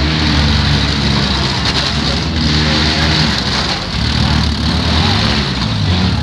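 Engines of compact demolition derby cars running and revving, their pitch rising and falling, over a steady background hiss.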